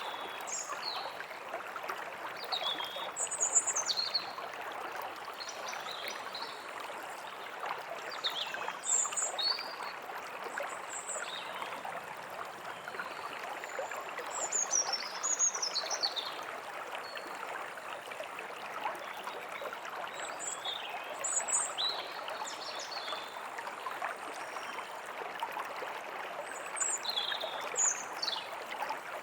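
A steadily running forest stream, with small birds chirping in short, high, quick calls that come in clusters every few seconds.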